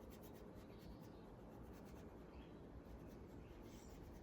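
Faint scratching of drawing strokes on paper, a quick run of short strokes.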